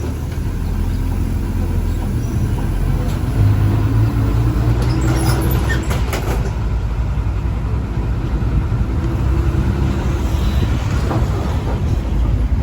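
Steady low engine hum and road noise of a moving road vehicle, with a few faint clicks about five seconds in.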